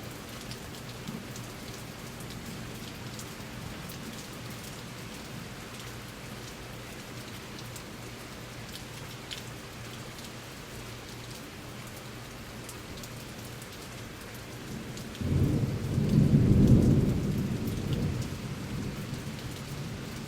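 Steady rain falling, with scattered drops ticking. About fifteen seconds in, a loud rumble of thunder breaks in, swells, and fades over a few seconds.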